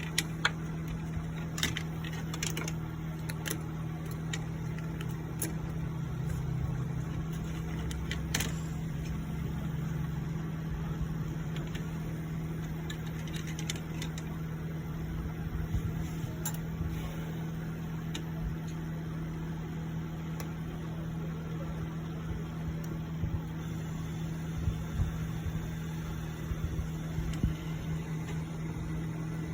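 A steady low hum with scattered light clicks and taps, typical of small metal tools and parts being handled on a repair bench.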